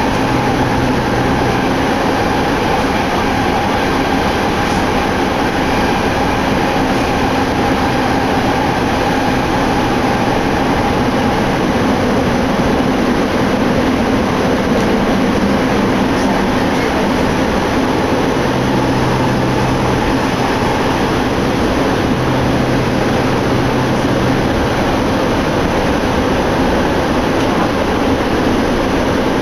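Inside a Saitama Rapid Railway commuter train car running between stations: a steady rumble of wheels and running gear, with a low hum that comes and goes several times.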